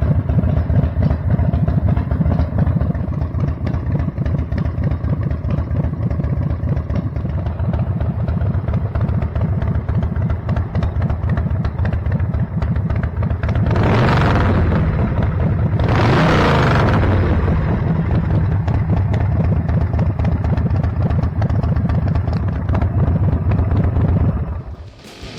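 Custom chopper motorcycle engine idling through its exhaust pipes with a steady, loud pulse. About halfway through it is revved twice in quick succession, and the sound cuts off just before the end.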